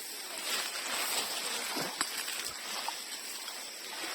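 Steady outdoor hiss of running water, with a few faint clicks.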